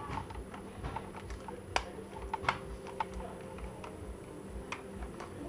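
Scattered light clicks and taps, irregular like keyboard typing, with two sharper clicks about two seconds in, over a steady low hum.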